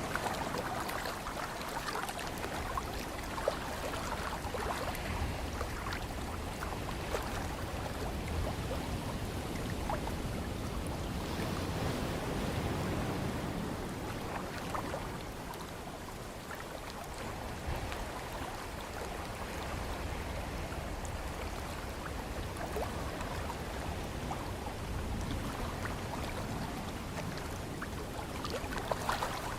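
Ocean ambience of waves washing and a breeze, a steady rush of noise with small crackling splashes scattered through it.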